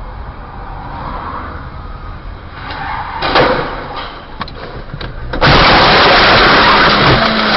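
Car noise heard from inside a vehicle: a steady low road rumble, a cluster of sharp knocks about three seconds in, then a sudden loud rushing noise from about five and a half seconds on.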